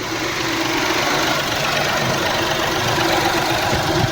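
Mahindra KUV100's electric radiator cooling fan running at high speed, switched on through a scan tool's actuator test, over the engine idling. The fan noise builds up over about the first second, then runs steadily.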